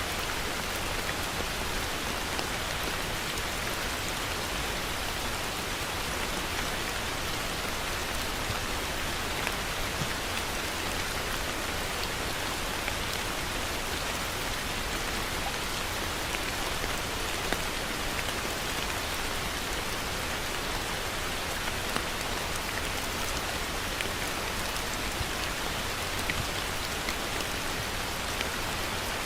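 Heavy rain falling steadily, a dense even hiss with scattered individual drop taps.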